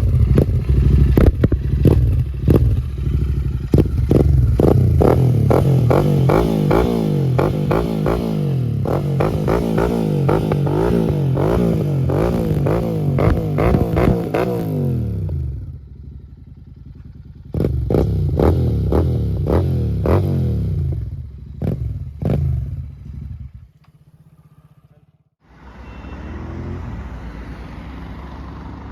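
Royal Enfield Interceptor 650's parallel-twin engine through a Gursewak aftermarket exhaust, revved up and down over and over, with sharp cracks among the revs. It settles to a steady idle about halfway through, then takes a few more short blips. Near the end it drops away for a moment, and a lower, steady engine sound follows.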